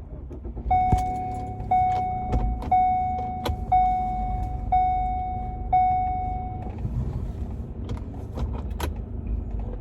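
Car's reverse or parking-sensor chime beeping steadily, six beeps about once a second, over the low rumble of the running engine while the car is backed up to straighten in a parking spot.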